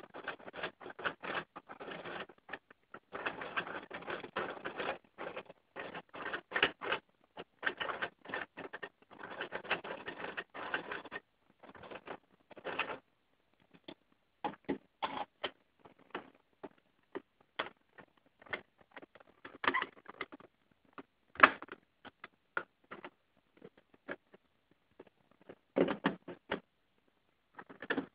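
Plastic parts of a two-piston Lego model engine clicking and rattling. A fast, dense clatter goes on for about eleven seconds, then gives way to scattered single clicks.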